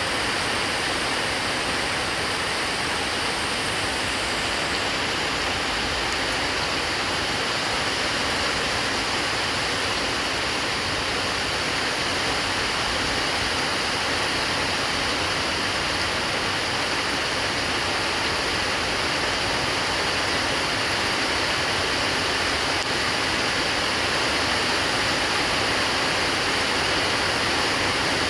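Heavy rain pouring steadily: a dense, even hiss that does not let up.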